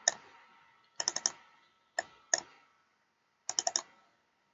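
Keys clicking on a computer keyboard: a single click, then a quick run of four, two separate clicks, and another quick run of four.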